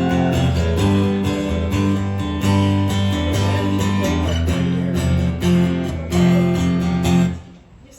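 Guitars strummed in a steady rhythm over sustained low bass notes, with no singing; the playing stops about seven seconds in.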